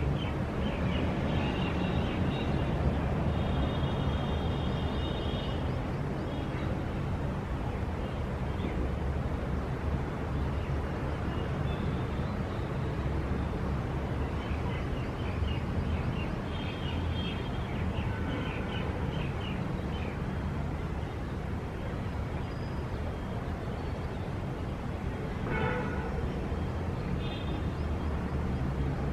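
City street ambience: a steady rumble of traffic, with short high-pitched sounds breaking through it now and then.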